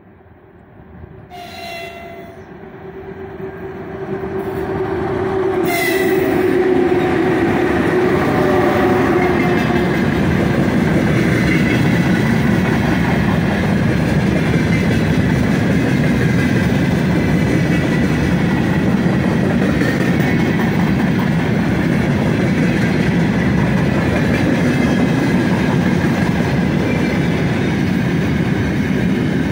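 A 3ES5K 'Ermak' three-section electric locomotive hauling a freight train approaches and passes, sounding its horn as it nears. It is followed by a long string of open gondola wagons rolling by with a steady loud rumble and wheel clatter.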